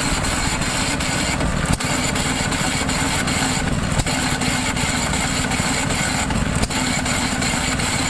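Hit-miss engine running unloaded: a sharp knock about every two to two and a half seconds as it fires only when its governor lets the speed drop, over a steady clattering machine noise.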